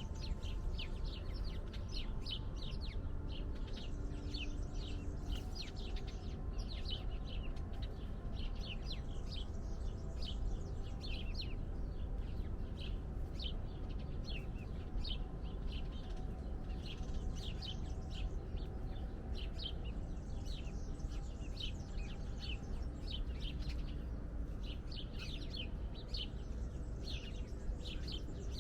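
Birds chirping in quick short high notes, several a second, throughout, over a steady low rumble.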